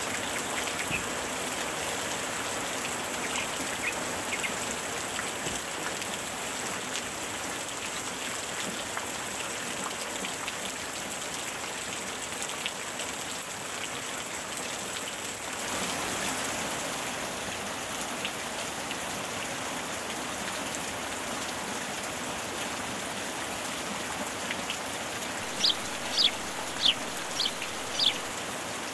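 Steady rain falling on the water of an outdoor swimming pool: an even hiss of drops on water. Near the end, five short high chirps stand out above it.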